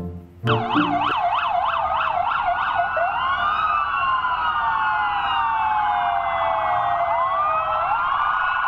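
Several police car sirens sounding at once, starting about half a second in. First comes a fast yelp cycling about three to four times a second. From about three seconds in it gives way to slow, overlapping rising and falling wails.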